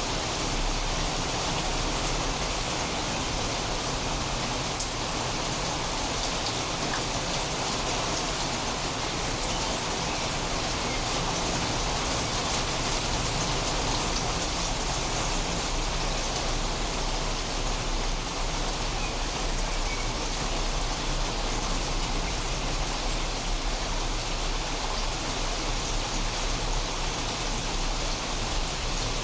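Steady rain falling, an even continuous hiss with a few faint drop ticks and no thunder.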